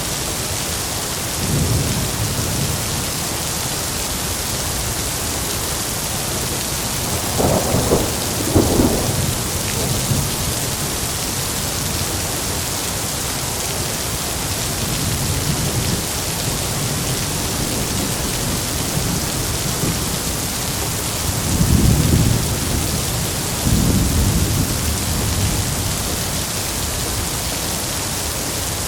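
Heavy rain falling in a steady hiss, with rolls of thunder rumbling through it several times. The loudest claps come about eight seconds in and again a little past twenty seconds.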